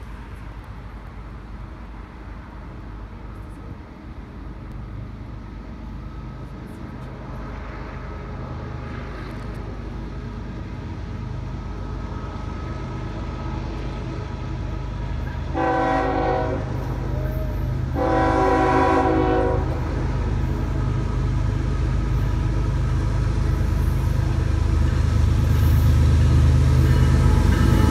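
Approaching train: the locomotive's steady low engine rumble grows louder throughout. A little past halfway it sounds its horn twice, two held multi-tone blasts about two seconds apart.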